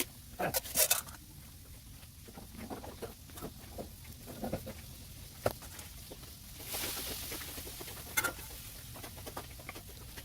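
Scattered clicks, taps and knocks of parts being handled during workbench work, with a loud clatter about a second in and a short hiss near seven seconds.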